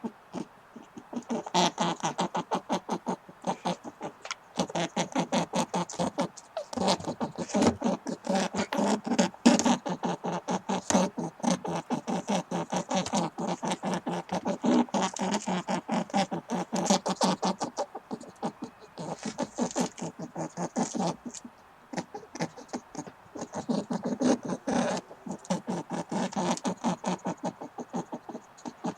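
An animal's rapid chattering: a fast, continuous run of short clicking calls, many a second, pausing briefly a few times.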